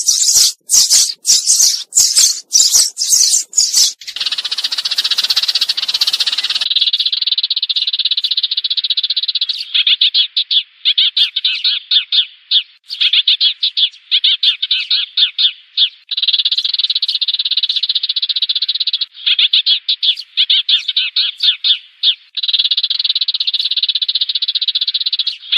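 Recorded sparrow flock calls used as a trapping lure: rapid sharp chirps for the first few seconds, then a dense, fast-pulsing chattering trill that runs on in bursts with brief breaks.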